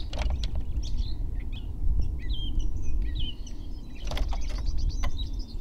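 Small birds chirping in short repeated glides over a steady low rumble, with a brief noise about four seconds in.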